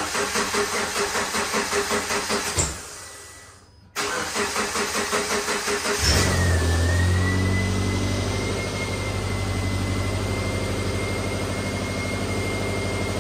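2007 Subaru Impreza's 2.5-litre flat-four being cranked by the starter. It stops after nearly three seconds, is cranked again, catches about six seconds in and settles into a steady idle with a thin high whine. This is a start attempt on a car that had refused to start, made with its ignition coil just refitted.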